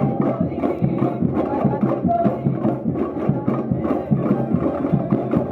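Samba music with fast, dense percussion driving a steady beat.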